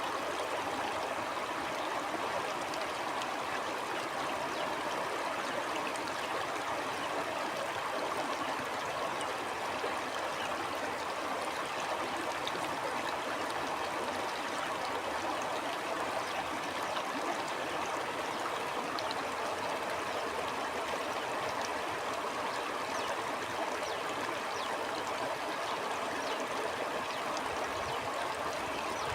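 Stream flowing steadily: a continuous, even rush and babble of running water.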